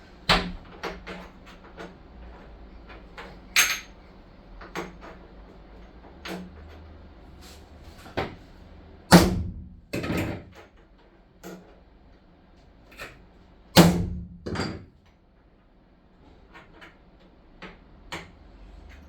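Irregular knocks and clanks of work on the van, one at a time with pauses between. The loudest come in two pairs, about halfway through and again a few seconds later.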